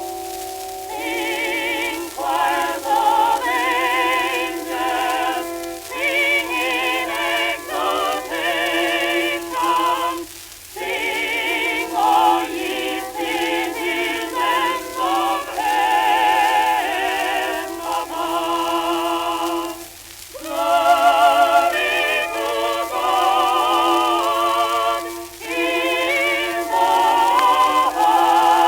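An early-1900s shellac phonograph record playing an operatic-style vocal with strong vibrato, its sound cut off above the middle treble. The singing comes in long phrases with short breaks about ten and twenty seconds in.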